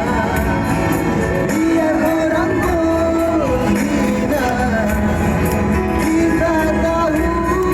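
A singer's voice carrying a wavering melody with long held notes over a pop band accompaniment with a steady beat.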